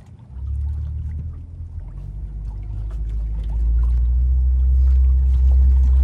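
Tour boat's motor running as a low, steady drone. It comes up about half a second in and grows louder about three and a half seconds in.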